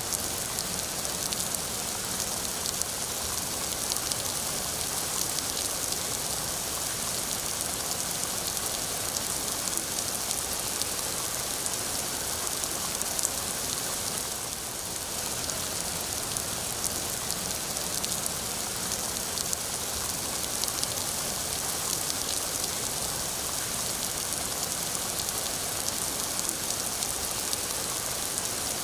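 Steady heavy rain falling, a dense hiss of drops hitting a surface with fine crackling patter throughout.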